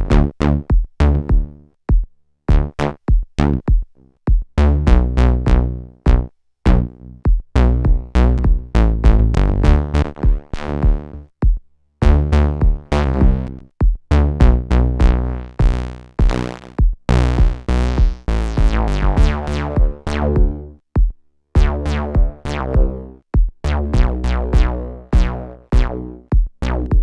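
Eurorack synthesizer sequence run through the Swenigiser Proto VCF/A filter and VCA module, its input driven hot for a gritty, distorted tone. A low sequenced line of short, sharply struck notes plays with percussive hits, and the filter opens and closes so that some notes come out bright and others dull.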